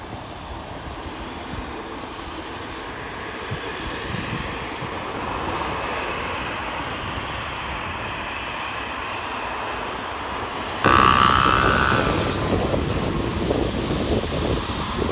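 Fixed-wing aircraft engines growing steadily louder as the plane approaches. About eleven seconds in, the sound jumps abruptly to louder aircraft noise with wind buffeting the microphone.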